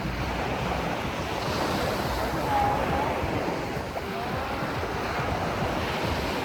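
Ocean waves washing in, with wind buffeting the microphone, as a steady rushing noise.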